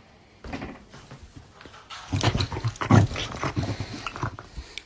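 A dog vocalizing in a run of short, rapid sounds, much louder from about two seconds in.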